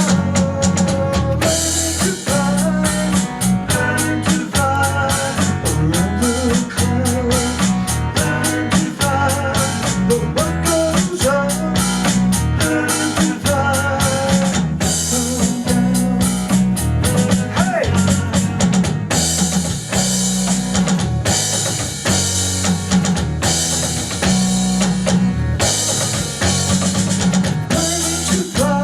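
A band playing an instrumental groove live: a drum kit keeps a steady beat with kick, snare and rimshots under a bass line and a wavering melodic lead.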